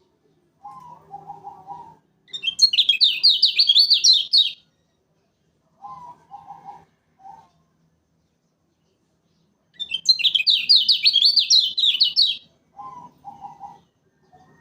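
Kecial kuning (Lombok white-eye) singing: two loud, high, rapid trilled phrases of about two seconds each, the first about two seconds in and the second near ten seconds. Softer, lower chattering notes come in short groups between the phrases.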